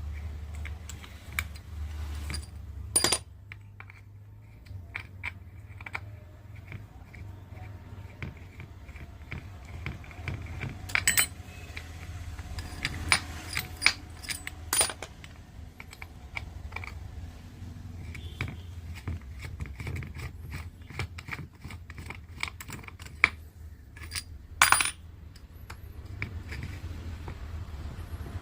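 Small metal parts and tools clinking and tapping against each other, in scattered sharp strikes, over a steady low hum.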